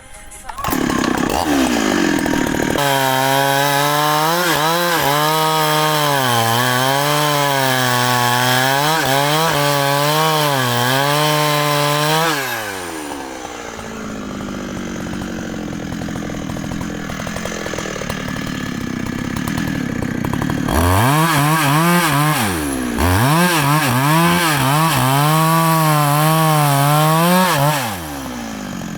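Large two-stroke Husqvarna chainsaw cutting wood at full throttle. The engine pitch dips and recovers about once a second as the chain loads in the cut. About 12 seconds in it drops back to a lower, quieter run, then goes back to full throttle and cuts again from about 21 seconds in to near the end.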